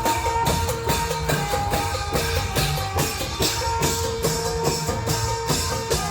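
Isan klong yao long-drum ensemble playing: a fast, steady beat of drum strokes with long held melody notes over it.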